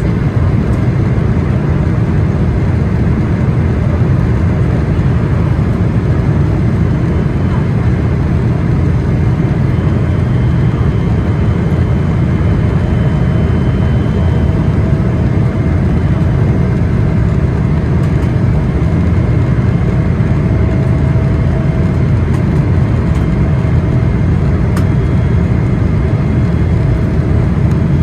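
Steady low rumble of a Boeing 777-300ER's engines and airflow heard inside the cabin, with faint steady whining tones over it.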